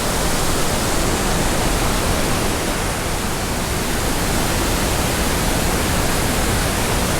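Steady rushing of a waterfall on a steep mountain creek, an even, loud roar of falling water that does not change.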